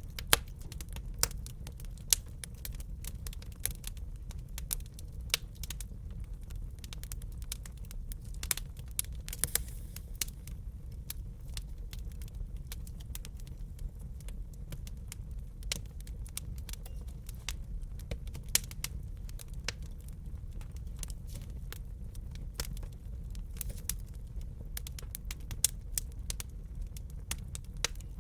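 Wood fire crackling in a fireplace: a steady low rumble of the burning logs under frequent irregular sharp pops and snaps.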